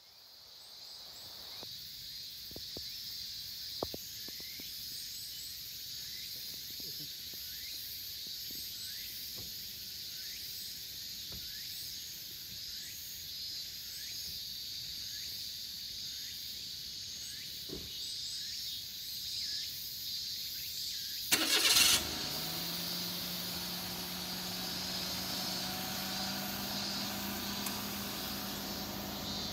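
Steady high-pitched outdoor background with short rising chirps about once a second. About 21 seconds in, a car engine starts with a loud, brief burst, then runs with a steady low hum that rises slightly in pitch.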